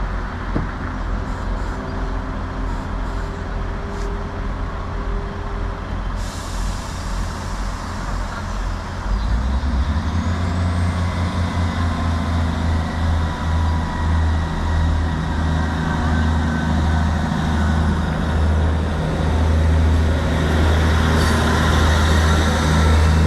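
Diesel multiple-unit train's underfloor engines running at the platform. About six seconds in, a hiss of air starts. About nine seconds in, the engine note rises and grows louder as the train powers up to pull away.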